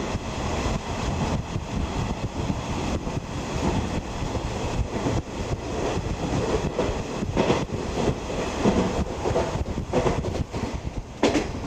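Running noise inside a 50-series passenger coach on the move: a steady rumble with the wheels knocking over rail joints, including a sharper knock near the end.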